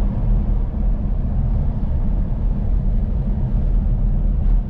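A car driving along, its road and engine noise a steady low rumble.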